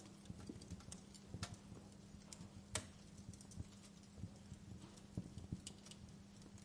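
Wood fire burning in a fireplace, crackling faintly with irregular snaps and pops; one sharper pop comes a little before the middle. A faint steady low hum runs underneath.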